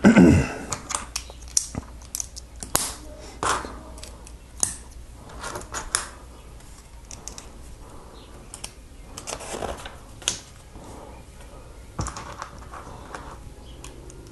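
Small plastic Lego pieces being handled and pressed together: scattered light clicks and taps, irregular and a few a second.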